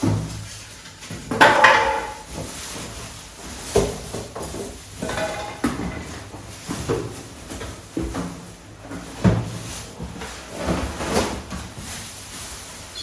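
Unpacking a new microwave oven: irregular knocks, scrapes and rustles as its packing is pulled away, loudest about one and a half seconds in.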